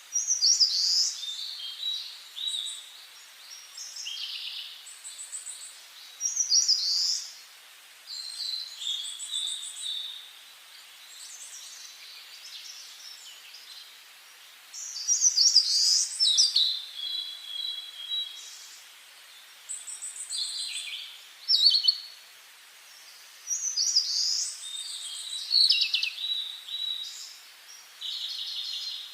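Songbirds singing, a run of varied short phrases every few seconds, with high, fast trills and gliding notes over a faint hiss.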